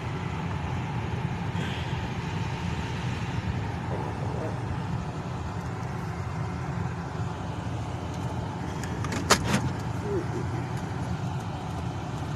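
Car engine running, a steady low rumble heard from inside the cabin, with two sharp clicks close together about nine seconds in.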